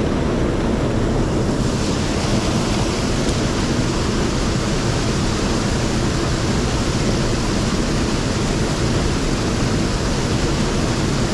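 Mountain stream water rushing steadily over rocks, a constant loud hiss, a little brighter from about two seconds in.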